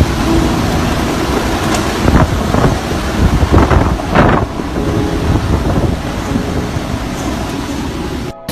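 Typhoon winds gusting and buffeting the microphone, a loud steady rushing noise with deep rumble that swells in stronger gusts a couple of times, then breaks off suddenly near the end.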